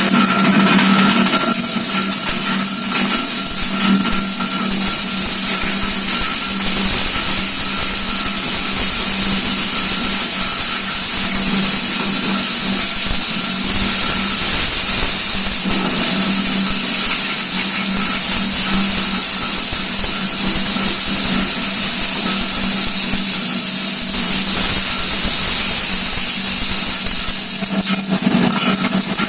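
Electric-motor-driven animal-feed chopper running steadily, a constant hum under a loud high-pitched whir from the spinning cutter.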